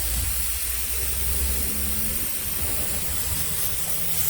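Tru Cut bandsaw sawmill running: a steady hiss over a low engine rumble, with a faint steady hum coming in about a second in.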